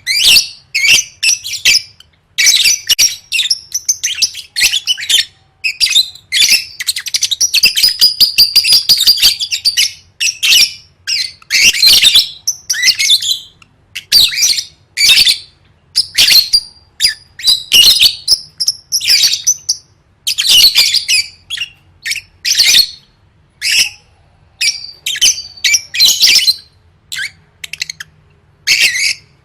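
Lovebird singing: long runs of rapid, shrill, scratchy chirps and squawks in phrases of one to three seconds, with short breaks between them and the longest unbroken run about halfway through.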